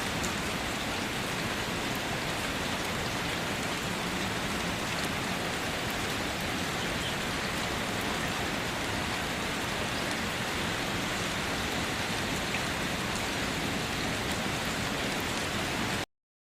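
Steady rain falling, an even hiss with the odd faint drop tick, that cuts off suddenly near the end.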